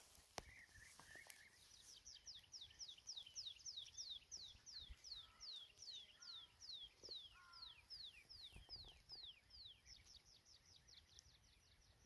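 Faint bird song: a long run of clear whistled notes, each falling in pitch, repeated about three times a second and a little faster near the end, with a few fainter, lower calls in the middle.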